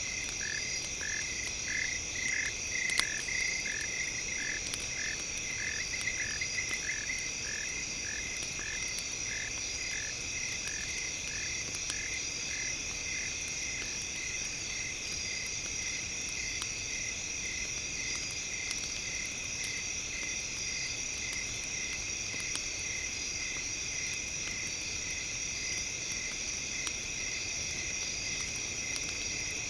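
Campfire ambience: wood crackling with scattered pops, one louder about three seconds in. Under it runs a steady high chirring, and a short call repeats about twice a second, fading out about halfway through.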